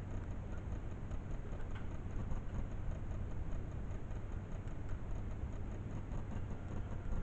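Motorcycle engine running steadily with a low rumble, and a faint regular ticking above it.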